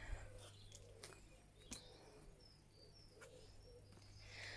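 Near silence with faint bird chirps: a few short, high calls a little past the middle, and some soft clicks.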